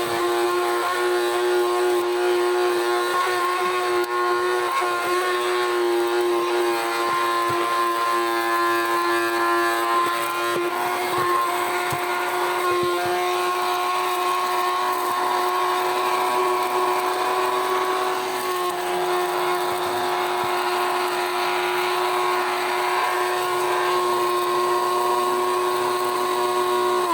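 Mini cordless handheld vacuum cleaner running with a steady whine, its pitch shifting a little now and then as it sucks. At the end it is switched off and winds down with a falling pitch.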